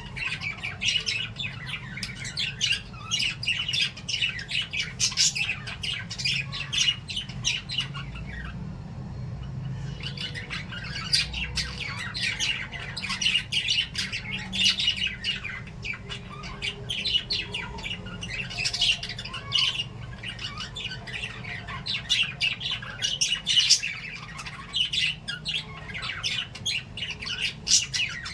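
A group of small pet parrots, lovebirds and budgies, chirping and squawking in quick overlapping calls, with a short lull about nine seconds in.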